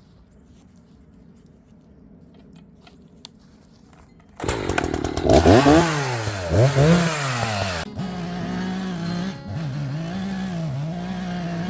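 Gas chainsaw with a 20-inch bar starting up about four seconds in, revving up and down, then running on at a steadier, wavering pitch.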